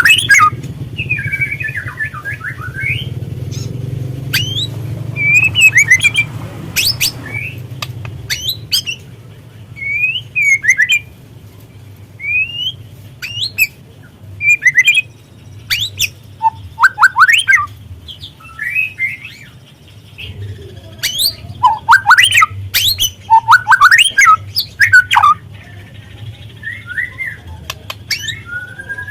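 Juvenile white-rumped shama singing: a varied run of short whistled phrases with rising and falling notes, mixed with sharp clicking calls, in bursts with short gaps between them. Underneath is a low steady hum, louder for the first several seconds.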